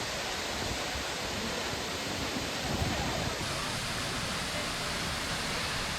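Steady rush of water falling and cascading, an even full-range hiss with no breaks.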